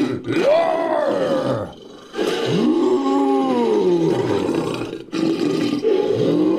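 Made-up ape-monster roar sound effect, layered from animal and monster roar recordings: three long roars, each rising then falling in pitch.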